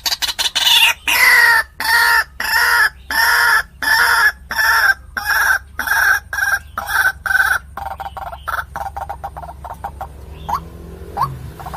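White-breasted waterhen (ruak-ruak) calling: a loud series of harsh, repeated notes about two a second, breaking into quicker, fainter notes after about eight seconds, with two short rising calls near the end.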